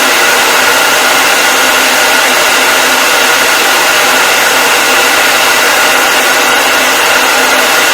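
Hair dryer running continuously: a loud, steady whooshing hiss with a faint fan whine in it, unchanging throughout.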